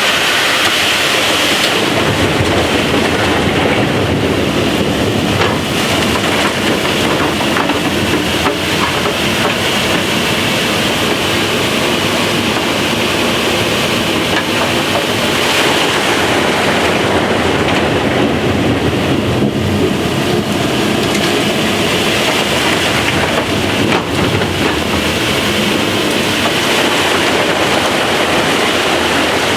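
Loud, steady din of opal-mining machinery underground: the blower sucking dug dirt up its pipe to the surface while the digging machine cuts into the wall.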